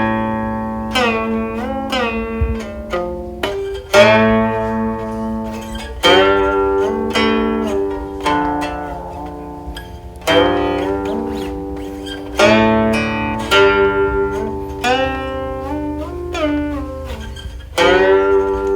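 Guqin, the seven-string Chinese zither, played solo: plucked notes and double stops that ring and fade, with the pitch sliding on held notes, and strongly plucked accents every few seconds.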